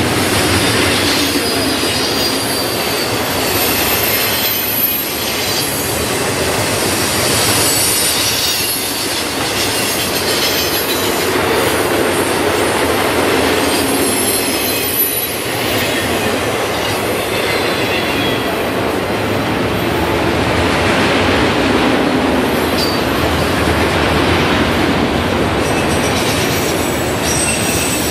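BNSF freight train's cars rolling past close by: a steady noise of steel wheels on the rails, with high-pitched wheel squeals coming and going and some clacking over the rail joints.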